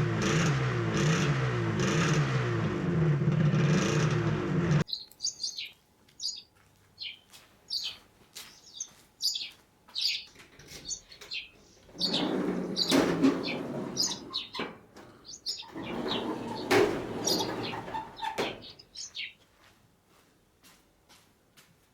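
Suzuki RG250Γ two-stroke twin engine running and revving unevenly, cut off suddenly about five seconds in. Then birds chirping, with two louder bursts of noise in the middle.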